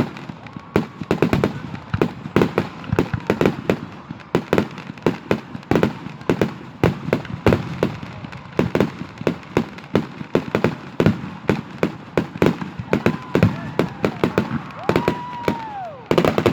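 Aerial fireworks display: a rapid, continuous succession of bangs and crackling pops, several a second, with a whistle gliding up and down near the end.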